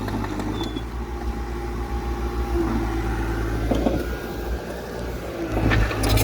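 Heavy earthmoving machine's diesel engine running steadily with a low hum and some light rattles. It grows louder and harsher about six seconds in.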